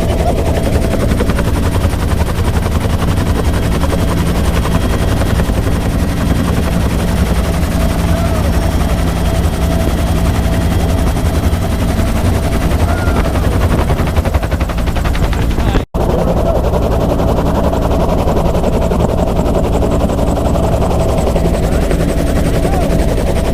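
Bell UH-1 Huey helicopter in flight: the rapid chop of the rotor blades over the steady whine of the turbine and transmission, loud and unbroken except for a split-second dropout about two-thirds of the way through.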